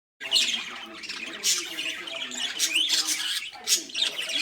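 Pet budgerigars (parakeets) chattering, with a quick run of sharp, high chirps and squawks that starts abruptly.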